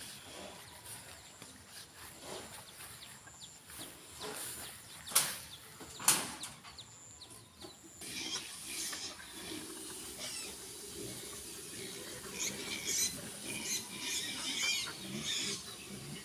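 Two sharp knocks about five and six seconds in, then a stretch of many quick, high chirps from birds.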